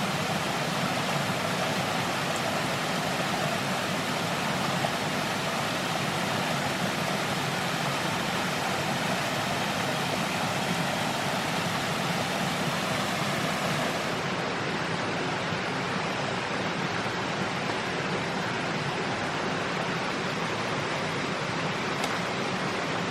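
Steady rushing of running water, an even noise with no distinct events; the highest hiss drops away about two-thirds of the way through.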